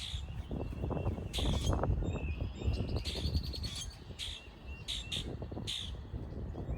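Wild birds giving short, sharp calls several times, with a rapid run of clicking notes about three seconds in, over wind buffeting the microphone.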